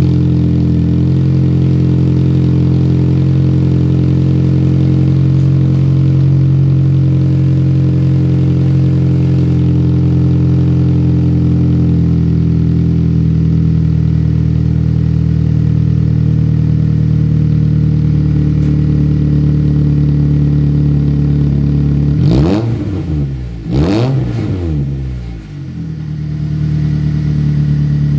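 1996 Suzuki Baleno's 1.6-litre 16-valve four-cylinder engine with a Silen Pro aftermarket exhaust, idling steadily just after a cold start. About 22 seconds in the throttle is blipped twice in quick succession, the revs rising and falling each time, before it settles back to idle.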